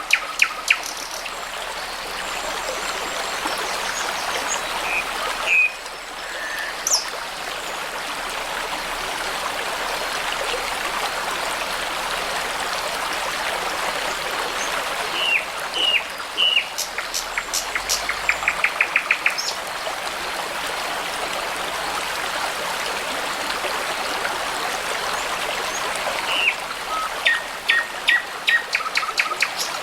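Babbling brook running steadily, with songbirds singing over it in short phrases: a few notes about five seconds in, a fast run of repeated notes around the middle, and a burst of calls near the end.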